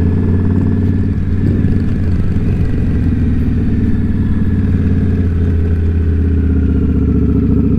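Indian Scout Bobber V-twin motorcycle engine running steadily under way at an even pace, with no revving or gear changes.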